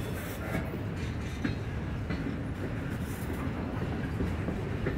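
Freight train's covered hoppers and tank cars rolling past: a steady low rumble of steel wheels on rail, with a few short clicks from the wheels.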